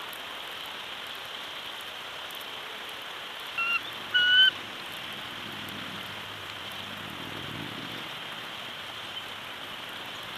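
Steady outdoor hiss with two short bird calls about three and a half and four seconds in, the second longer and slightly rising.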